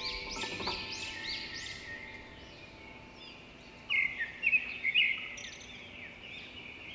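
Birds singing: a quick series of high, arching notes in the first second, then a quieter stretch, then a burst of loud, sharp chirps about four to five seconds in.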